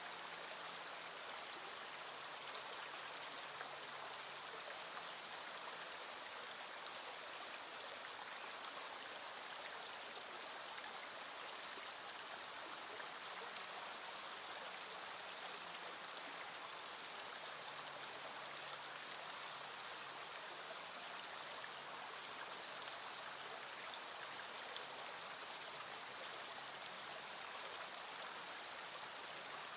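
Small stream flowing steadily over stones, an even rushing babble of water.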